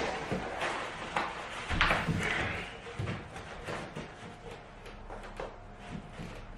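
Irregular knocks and clatter of click-lock cork floor planks being handled and fitted, the loudest about two seconds in, growing sparser and fainter towards the end.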